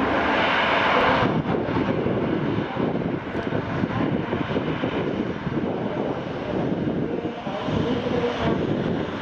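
Jet engines of a Boeing 737-800, its CFM56 turbofans, running loud as the airliner lands, easing down a little over a second in and then carrying on steadily.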